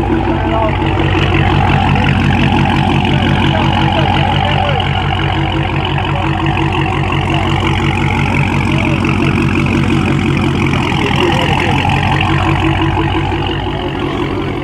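Car engine running loud and steady, a low pulsing rumble that holds one pitch without revving and eases off a little near the end.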